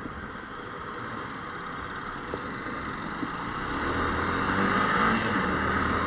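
Motorcycle running in traffic, with road and wind noise; about four seconds in the engine note comes up and the sound grows louder, as when pulling away.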